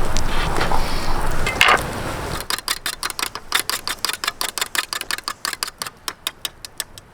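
A rapid, even run of knife strokes on a cutting board, about six a second, as when green onions are minced. It starts about two and a half seconds in, after a steady noisy background.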